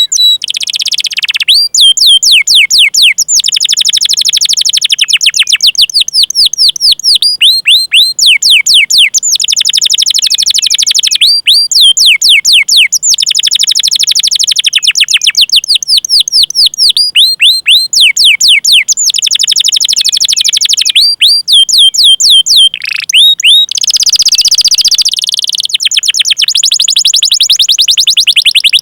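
Domestic canary singing loudly in phrase after phrase of fast repeated high chirps ('cuit cuit'), each one sweeping downward in pitch, about eight a second, with rolling trills between them.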